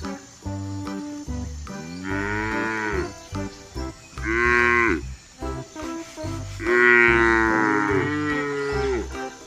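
Cow mooing three times, the last call the longest, over background music.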